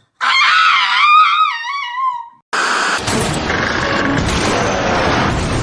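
A high, wavering scream lasting about two seconds, then, after a brief gap, a loud, steady, noisy rush that runs on.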